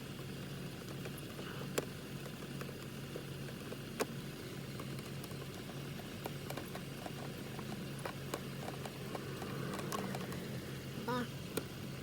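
Scattered light clicks and taps of steering-wheel parts and fasteners being handled and fitted, over a steady low hum.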